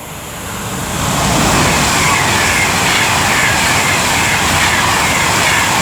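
Class 390 Pendolino electric train running through the station at speed, a loud rush of wheel and air noise that builds over the first second and then holds steady.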